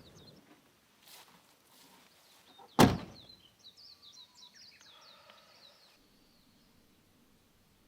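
A door shuts with a single heavy thunk about three seconds in, followed by a bird chirping in quick, high notes for a few seconds.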